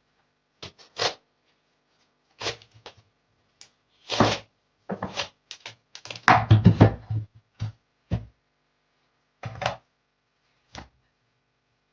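Irregular knocks, thuds and clatters of things being handled, a dozen or so short strikes with silent gaps between them and a denser, louder cluster a little past the middle.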